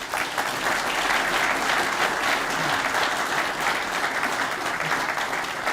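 Audience applauding: many hands clapping, swelling quickly and then holding steady.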